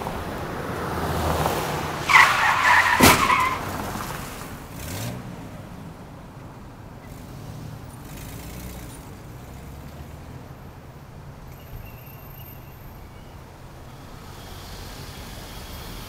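Car tyres screeching in a skid for about a second and a half, cut by a single loud crash of a car collision about three seconds in. A smaller knock follows a couple of seconds later, then steady road traffic.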